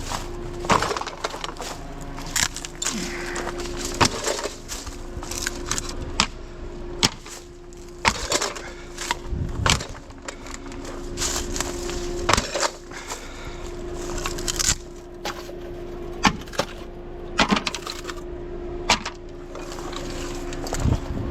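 Scrap, largely wood, being handled and loaded: a run of irregular knocks, clunks and clatters, with a steady low hum running underneath.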